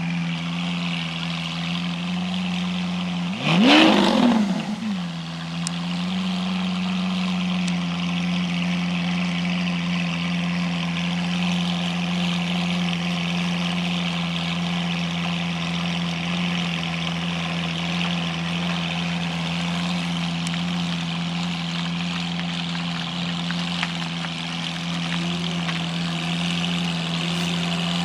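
Car engine idling steadily, with one quick rev that rises and falls about four seconds in.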